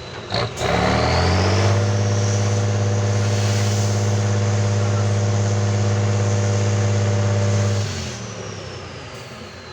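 Competition truck's diesel engine revved hard about a second in, held at high revs for about six seconds, then let back down to a lower rumble near the end. A high whistle rises and falls with the revs.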